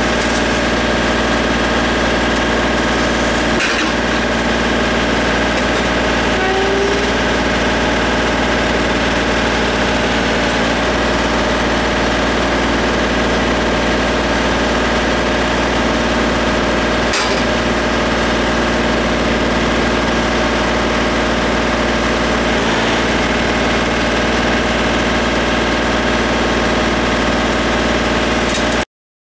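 Tractor-loader-backhoe engine running at a steady speed. It cuts off abruptly near the end.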